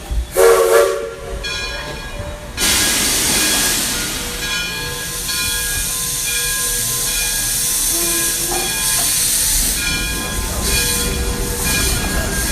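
Steam locomotive: a short, loud whistle blast about half a second in, then a sudden burst of steam hiss a couple of seconds later, followed by the steady running sound of the train.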